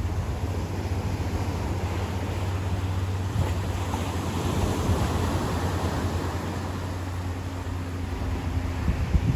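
Ocean surf washing steadily onto a beach, with a low steady rumble underneath.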